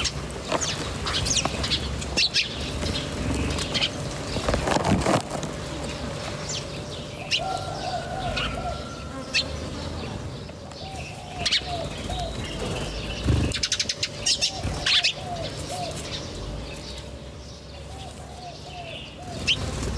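Several birds chirping, with short high calls scattered throughout and a repeated run of quick, lower, arched notes that comes back about four times.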